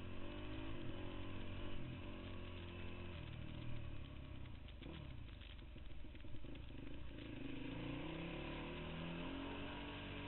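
Motocross bikes running on a track, their engine notes rising and falling as they rev, accelerate and back off, several overlapping at once.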